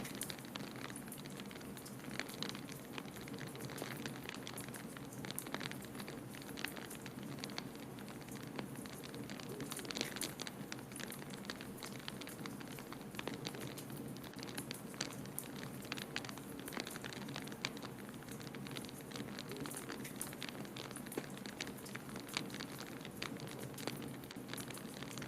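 Wood fire in a fireplace crackling, with irregular pops and snaps over a steady low rushing noise.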